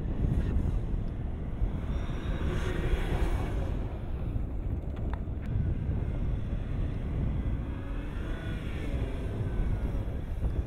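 Range Rover engine running under load as the SUV drives through soft sand dunes, its note rising and falling twice, over a heavy low rumble of wind on the microphone.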